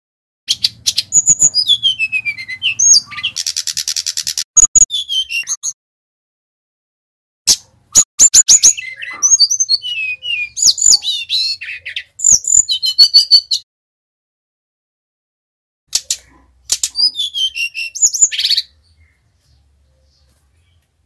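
Sikatan rimba dada coklat (a jungle flycatcher) singing in three loud bouts of rapid high chirps, trills and whistles that slide down in pitch, with short silences between the bouts.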